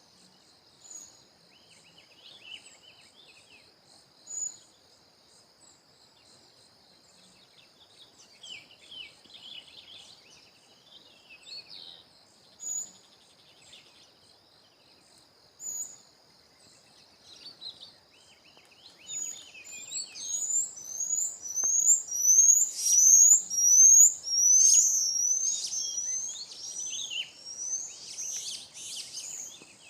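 Wild birds calling in a morning chorus over a steady high insect drone. Scattered short chirps come first, then about two-thirds of the way in a bird starts a fast, loud run of repeated down-slurring whistled notes that carries on nearly to the end.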